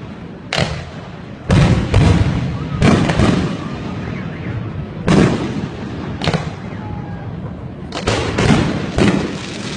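Fireworks display: about ten sharp bangs of bursting shells at irregular intervals, each followed by a long rolling rumble, coming thick and fast in a cluster near the end.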